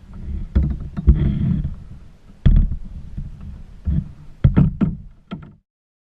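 A string of knocks and thumps over a low rumble of wind on the microphone, louder and more frequent toward the end, then an abrupt cut to silence about five and a half seconds in.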